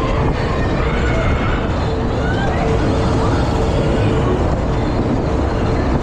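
Fairground thrill ride in motion: a loud, steady rush of ride machinery noise with a steady hum running through it.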